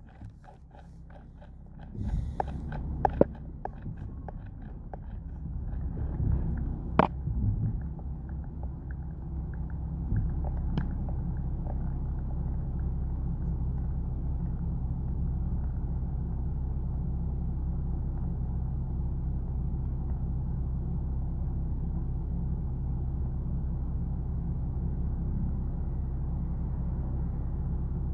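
Car engine idling, heard inside the cabin while stopped in traffic: a steady low hum. A few scattered clicks and knocks come in the first ten seconds or so.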